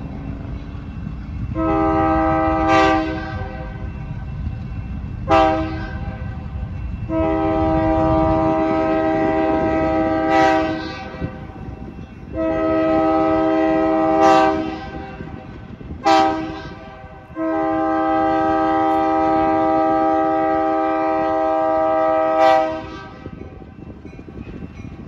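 Diesel locomotive's chime horn sounding the grade-crossing signal twice in a row (long, long, short, long), over the low rumble of the passing train.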